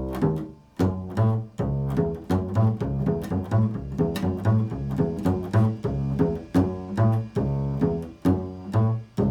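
Improvised music on a low-pitched plucked string instrument: bass notes picked in a steady, repeating pulse of about two to three notes a second.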